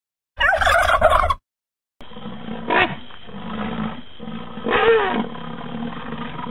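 A wild turkey gobbles in a short burst about half a second in. After a moment of silence a rhinoceros recording starts: a steady low background with two drawn-out calls that bend in pitch, about a second and a few seconds later.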